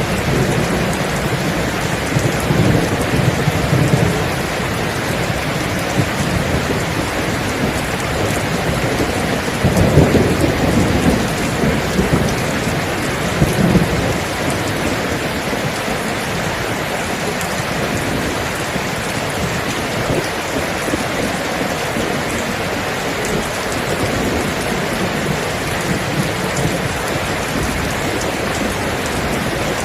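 Steady heavy rain with rolling thunder: low rumbles swell up a few times, the strongest about ten seconds in, over the constant hiss of the rain.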